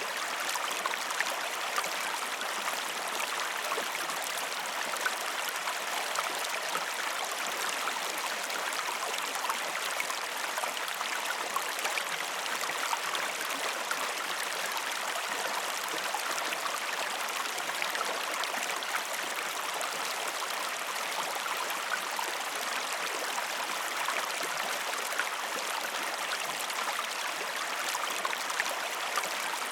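Waterfall: falling water rushing steadily, with small splashes all the way through.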